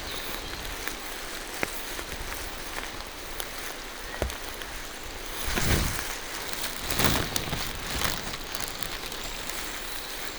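Steady rain falling through forest trees, with scattered single drops ticking close by. A little past halfway through come three louder soft crunches, footsteps on the wet forest floor.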